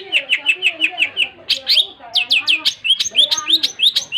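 Long-tailed shrike (cendet) singing a fast run of sharp, down-slurred chirps, about six a second, with a brief pause about two seconds in and a lower warbling strand underneath.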